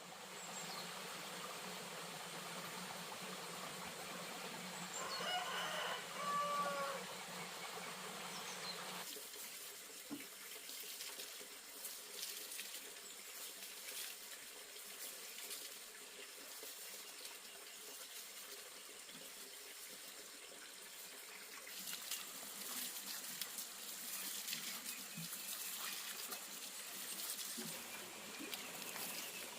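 Water splashing and trickling, with a rooster crowing once about six seconds in.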